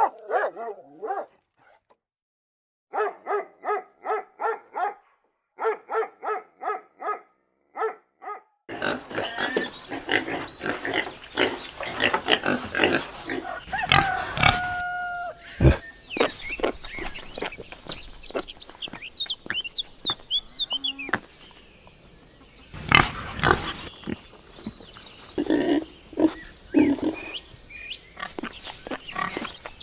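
Pigs calling: groups of short, evenly spaced calls, then from about nine seconds in a busier stretch of overlapping calls and knocks.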